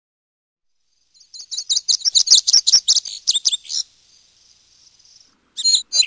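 A small bird singing: a rapid run of sharp, high chirps starting about a second in, coming faster and louder, then trailing into a fainter thin trill, with a fresh burst of chirps near the end.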